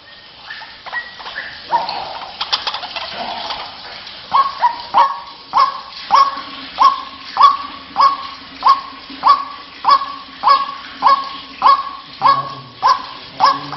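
White-breasted waterhen (ruak-ruak) lure call: a jumble of croaking and chattering calls, then from about four seconds in a steady series of sharp repeated calls, nearly two a second.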